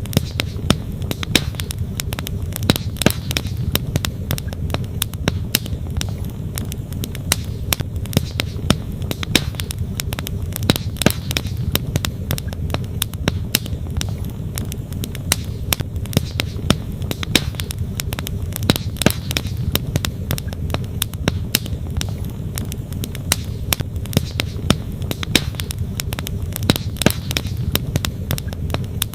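Wood fire crackling, with frequent sharp pops and snaps at irregular intervals, over the steady low rush of a flowing stream.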